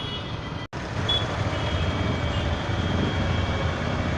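Road traffic noise heard from a moving motorcycle: a steady low rumble with a hiss of wind and road, and faint high beeps. The sound cuts out for an instant just under a second in, then comes back louder.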